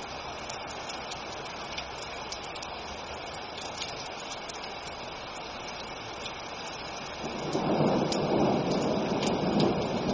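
Steady rain falling, with scattered sharp ticks of single drops. About seven seconds in, a rumble of thunder rolls in and grows louder.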